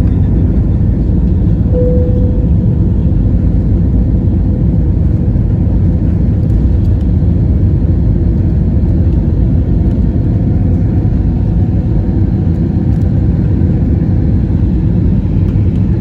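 Aircraft cabin noise during take-off: a loud, steady, deep rumble of engines and airflow heard from a window seat, with a brief faint tone about two seconds in.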